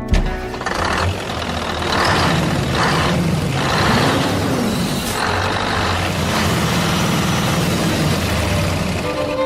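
Loud, steady engine-like machine noise, with three short hissing bursts about a second apart in the first half.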